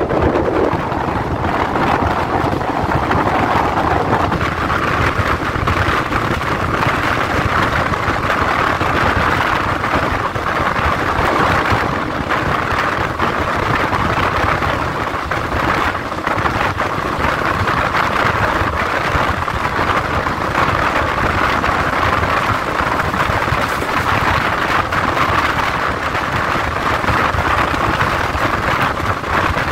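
Steady rushing noise at the open window of a moving passenger train: wind sweeping past together with the running noise of the wheels on the rails.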